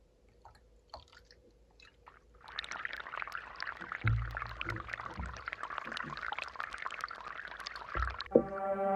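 Water pouring and splashing steadily, starting a couple of seconds in after a few faint clicks, with a few dull knocks along the way. Music comes in near the end.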